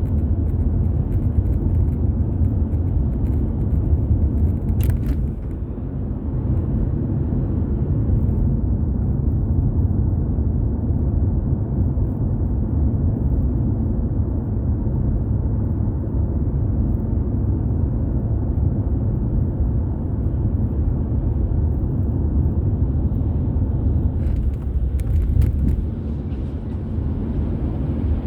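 Steady low rumble of a car driving along a road, with a few faint short clicks about five seconds in and again near the end.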